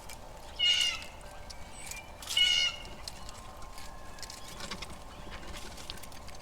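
Two short mewing animal calls, about two seconds apart, over a faint outdoor background with scattered small clicks.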